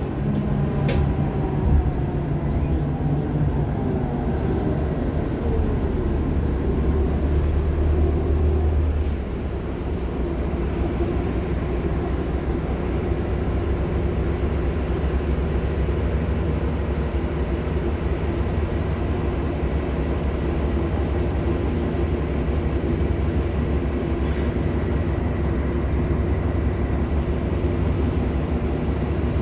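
Nova LFSA hybrid articulated bus running, with its Cummins ISL9 diesel and Allison hybrid drive. The drive note falls in pitch over the first few seconds, drops a little in level about nine seconds in, then holds as a steady drone.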